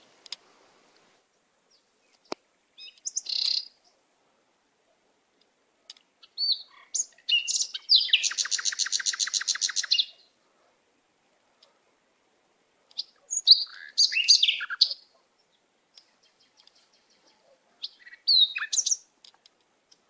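Birds chirping in short, high-pitched bursts separated by silences. Near the middle there is a fast trill of rapidly repeated notes lasting about two seconds.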